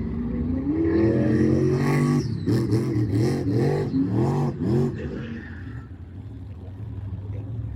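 Monster truck engine revving hard: a rising rev about a second in, then a run of quick throttle blips, easing off to a lower running note near the end.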